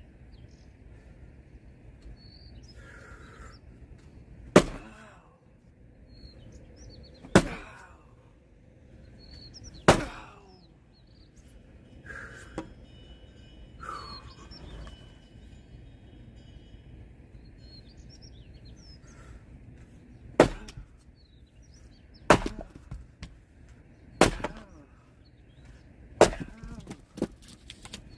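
An axe splitting firewood: about seven sharp chopping strikes, a few seconds apart, with a pause of about ten seconds in the middle.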